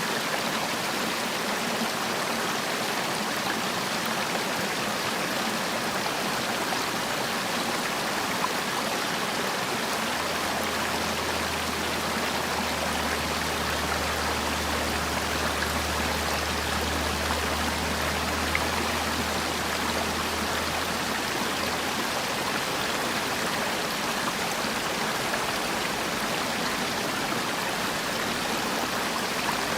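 Valley stream water flowing steadily, an even rushing noise, with a faint low hum in the middle.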